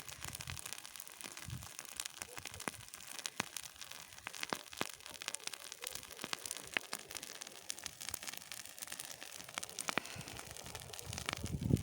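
Dry grass burning in a bonfire, crackling with many irregular sharp pops over a steady hiss.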